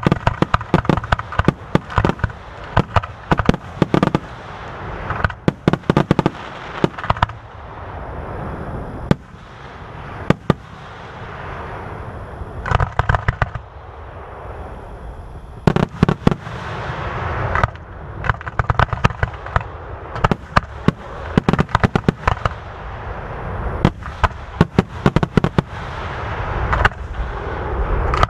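Aerial fireworks shells bursting in rapid, dense volleys of sharp booms and crackles, with brief lulls in which a hissing rush builds before the next cluster, as in a finale.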